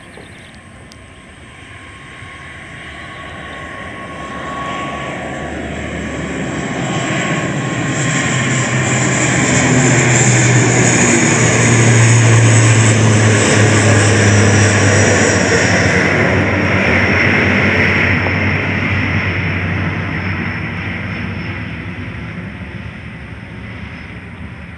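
An aircraft passing overhead, growing steadily louder to a peak about halfway through, then fading away.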